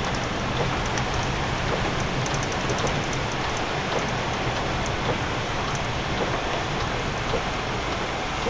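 Steady road noise heard from inside a double-decker coach travelling at speed: tyres running on a snowy highway over a low engine hum, with faint light ticks throughout.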